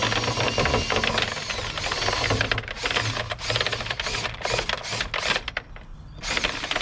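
Dryer vent cleaning rod and brush spinning inside the lint-clogged duct, making a rapid, dense rattling that breaks up about halfway through into irregular clattering knocks.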